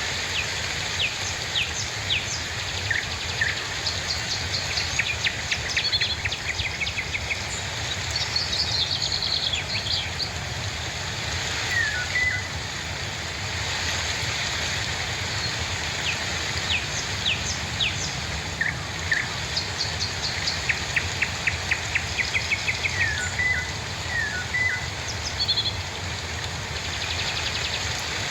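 Birds chirping and calling over a steady hiss of rain. Several quick trills of short repeated notes come and go, with a few falling whistled notes in between.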